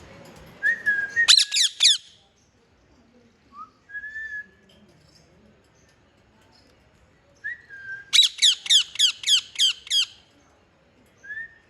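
A bird singing a whistled phrase twice: a short clear note, then a quick run of sharp, downward-sweeping chirps at about five a second. A few softer single whistles fall in between.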